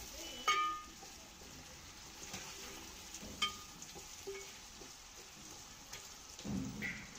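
Chopped carrots sizzling softly in hot oil in a metal pot while being stirred with a steel ladle. A few ringing clinks of the ladle against the pot stand out, the clearest about half a second in.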